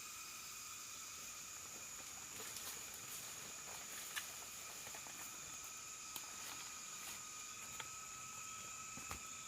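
Steady high drone of forest insects, crickets or cicadas, held at a few fixed pitches, with a few scattered sharp clicks and taps.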